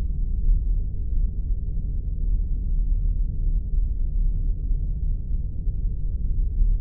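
Spaceship interior ambience sound effect: a steady deep rumble and hum, heaviest in the bass, that does not change.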